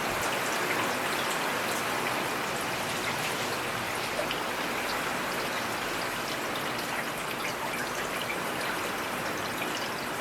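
Steady rain: an even hiss with many separate drop hits ticking through it.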